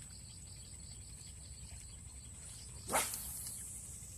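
Insects chirring steadily in a high, even pulse. About three seconds in comes a sudden loud rush of noise that fades away over about a second.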